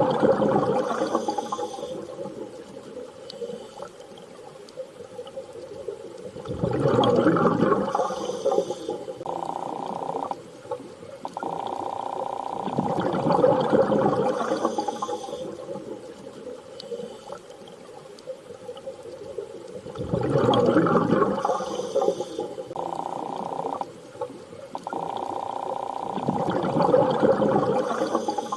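Underwater ambience: water noise swells and fades about every seven seconds over a steady low tone, which drops out briefly twice.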